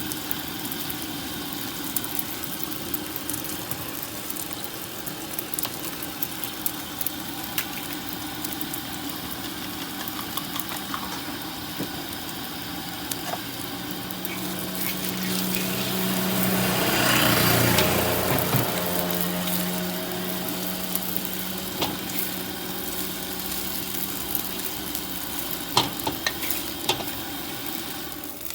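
Fried rice sizzling in a hot wok, with the metal spatula clicking and scraping against the pan at irregular moments. About halfway through, a motor engine swells up and fades away again.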